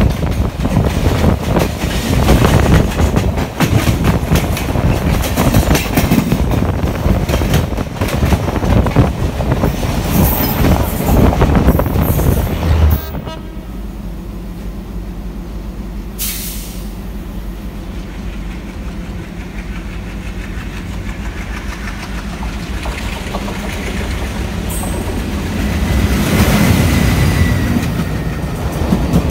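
Passenger coaches of a train rushing past close by, heard from the open doorway of another train: loud clatter of wheels and rushing air that cuts off about halfway through. Then a quieter steady rumble with a low hum, and near the end the clatter of another train's coaches passing alongside builds up.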